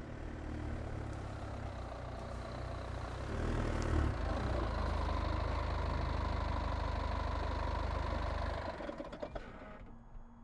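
An SUV's engine running as it pulls up and idles, then switched off about nine seconds in.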